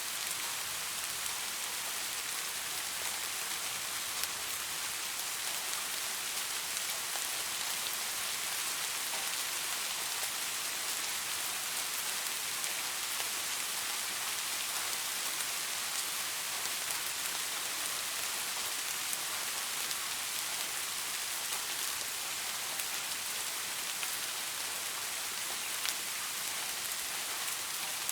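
Steady rain falling: an even hiss, strongest in the upper register, with many small individual drop ticks through it.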